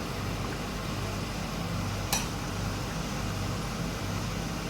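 Steady low kitchen hum, with a single sharp clink of a utensil against a pot or plate about two seconds in.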